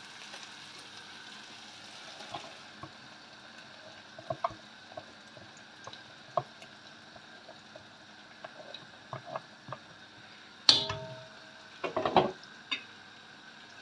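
Ground onion sizzling softly in oil and butter in a pan, with scattered small clicks. Marinated chicken is tipped in from a plastic tub, with a loud knock and brief ring against the pan about eleven seconds in and a few more knocks soon after.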